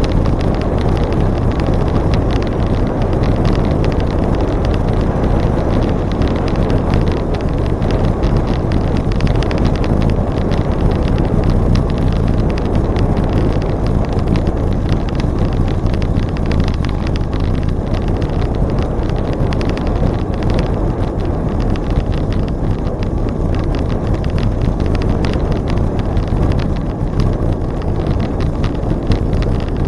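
Steady wind rushing over the microphone of a camera on a moving bicycle.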